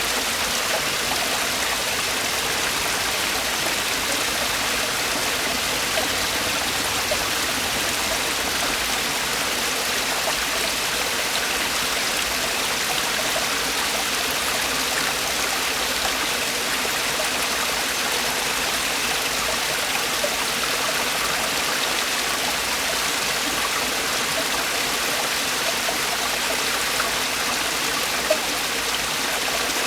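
Mountain stream cascading over rocks: a steady rushing of falling water with small splashes and droplets throughout.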